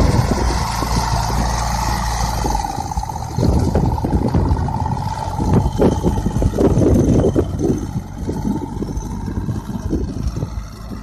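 Tractor engine running steadily, powering a mounted crop sprayer, with a steady whine over a low rumble. From about three seconds in, irregular gusts of wind buffet the microphone.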